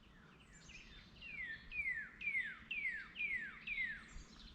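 A songbird singing a run of about eight clear whistled notes, each sliding down in pitch, roughly two a second and growing louder.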